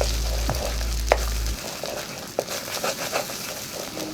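Beaten eggs sizzling in a hot oiled wok while a spatula scrambles and breaks them into pieces, with sharp scrapes and taps of the spatula on the wok, the loudest about a second in. A low hum underneath cuts off about a second and a half in.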